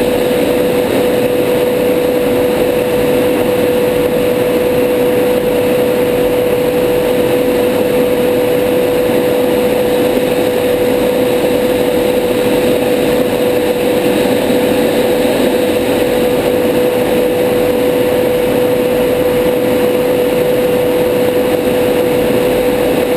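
Steady cockpit noise of a Tornado GR4 in fast low-level flight: a constant drone of engine and airflow with a strong, unchanging hum.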